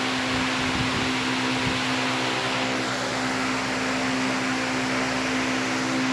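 Solaster Veneza Plus 70 cm, 270 W fan running steadily: an even rush of air over a steady low motor hum.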